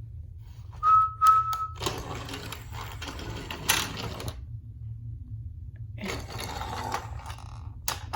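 A short, high whistle-like tone, then two stretches of rattling and scraping with clicks: small toy vehicles being pushed and handled on a hard surface. A low hum runs underneath.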